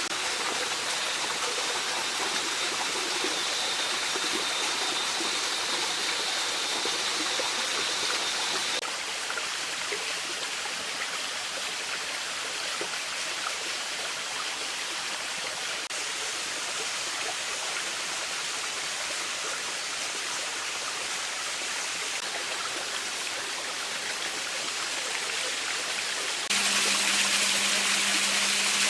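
Mountain stream flowing, a steady rush of water that drops abruptly to a softer sound about a third of the way in and jumps back louder and brighter near the end.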